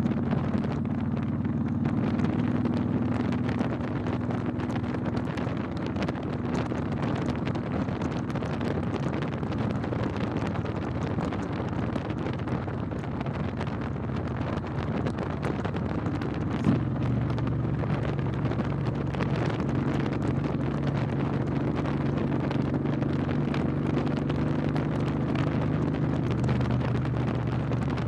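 Motorcycle engine running steadily while riding, with wind buffeting the microphone. About two-thirds of the way through there is a brief click and the engine note changes.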